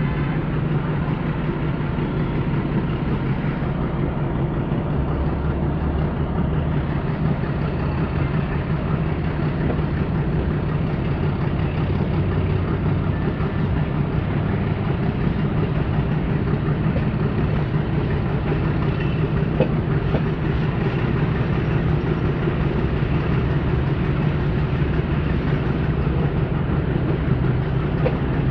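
Metre-gauge passenger train hauled by a YDM4 diesel locomotive running at a steady speed. A constant rumble of the train on the track, with a steady low drone underneath.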